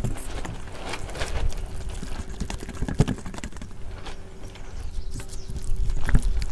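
Kitchen handling sounds: scattered knocks and clicks of utensils and dishes, with a sharper knock about three seconds in, over a faint steady hum.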